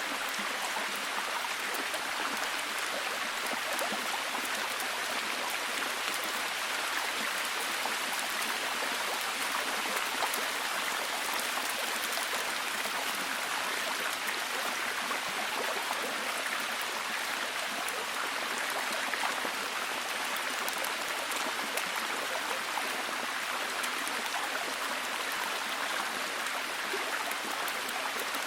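Steady heavy rain, a dense even hiss of drops with faint individual patters, no rises or lulls.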